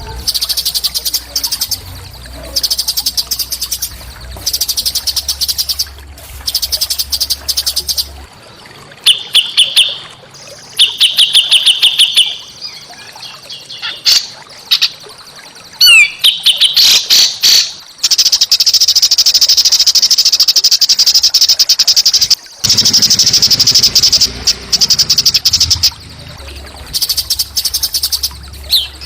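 Small songbirds singing in rapid, harsh chattering trills: short repeated bursts at first, then a long unbroken buzzy trill a little past the middle.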